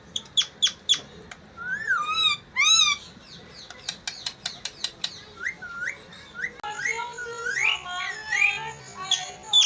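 Pet parrot calling: a run of short, sharp downward chirps mixed with wavering whistles, turning into busier layered chatter over the last three seconds.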